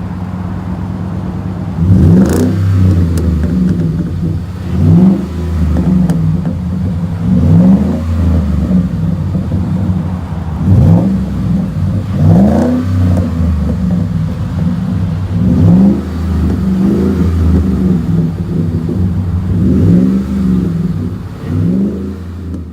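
Ford F-150's 5.0-litre V8 running through a split dual exhaust with Flo~Pro Max stainless mufflers, idling and repeatedly blipped, each rev rising and falling back to idle every two to three seconds.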